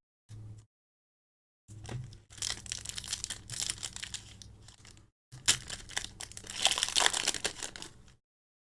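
Foil booster pack wrapper being torn open and crinkled by hand, in two long stretches of crinkling: one starting about two seconds in, and a louder one from about five seconds in.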